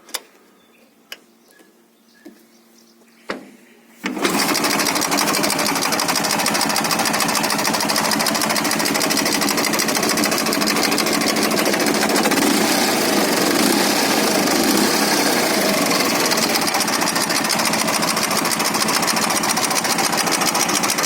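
Ural motorcycle's flat-twin engine, already warm, after a few faint clicks catches about four seconds in and runs steadily at a fast, even idle.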